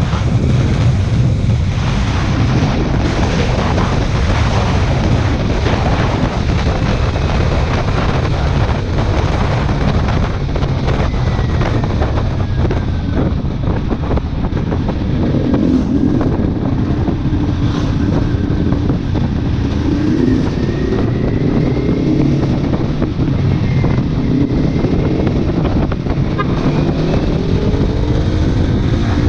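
Kawasaki Ninja 400's parallel-twin engine running through a modified exhaust while the bike is ridden, buried under heavy wind noise on the microphone. The engine's pitch rises and falls from about halfway through as the revs change.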